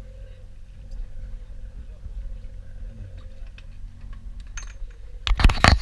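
Steady low rumble of a party boat's engine, with scattered light clicks, then a loud burst of rough noise on the microphone near the end.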